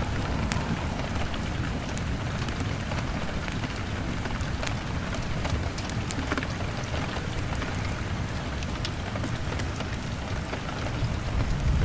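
Steady rain on a window mixed with a crackling fire: an even hiss of rain with scattered sharp little pops and ticks, over a low rumble that swells near the end.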